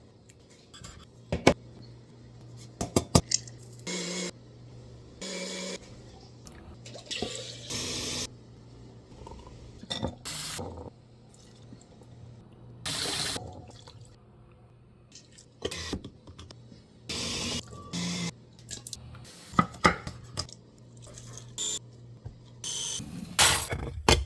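Sauce containers being handled and dispensed: sharp clicks of caps and containers, short wet squirts and pours of sauce, and a faint low hum underneath.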